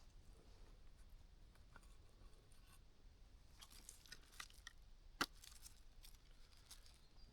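Near silence with faint handling noises: scattered small clicks and crinkles, and one sharp tap about five seconds in.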